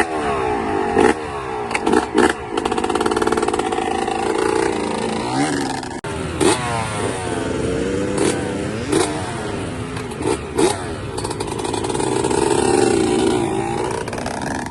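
A 125cc motocross bike's engine revving up and down as it is ridden, its pitch climbing and dropping again and again through the gears, with several sharp clacks along the way.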